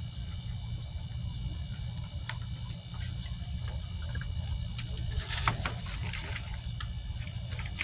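Scattered crackling and rustling of soil and dry garden debris being handled and dug through, thickest past the middle, over a steady low rumble.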